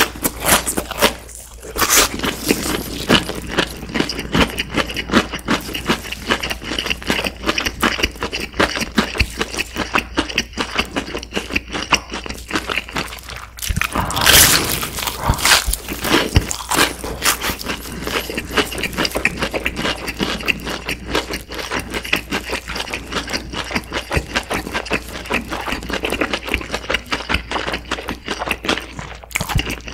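Close-miked chewing of crispy fried chicken, the crust crackling in many rapid small crunches. About halfway through comes a loud crunchy bite into a fried drumstick.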